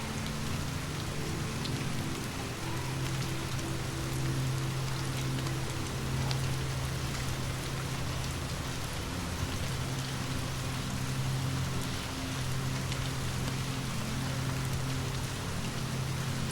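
Steady rain falling on a surface, with scattered drop ticks over a constant low hum.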